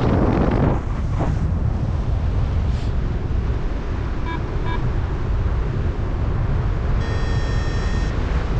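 Wind rushing and buffeting over the microphone of a paraglider pilot in flight. About halfway through come two short electronic beeps, and near the end a longer, one-second electronic tone, typical of a flight variometer.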